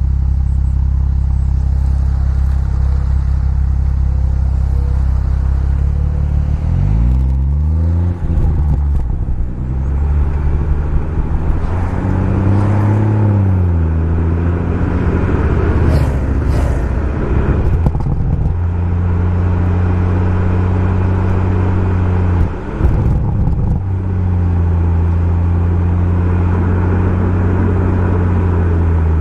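BMW M140i's turbocharged 3.0-litre straight-six running through a Remus aftermarket exhaust. It holds a steady drone, rises in revs and falls back twice, runs steady again, and gives one short quick rev rise and drop later on.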